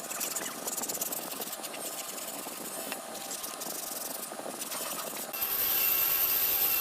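Woodworking shop sounds: light irregular knocks and rattles over a hiss. About five and a half seconds in, a steady power-tool noise with a thin high whine starts suddenly.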